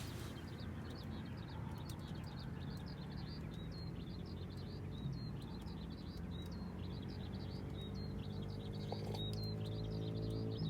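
A small bird calling in a fast, unbroken run of short high chirps, several a second, over a low steady hum.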